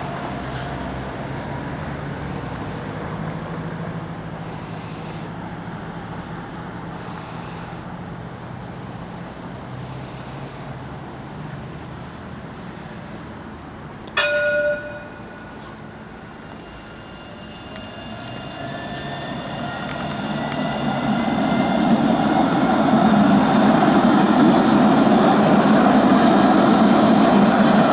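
Tram on a city street: a steady low hum, then a short warning tone about halfway through. The tram then draws near, its electric motors whining upward in pitch over the growing noise of its wheels, louder and louder to the end.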